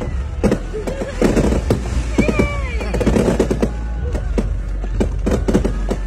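Aerial consumer fireworks going off overhead in rapid, irregular bangs and crackles, with thicker bursts of crackle about a second in and again around three seconds in.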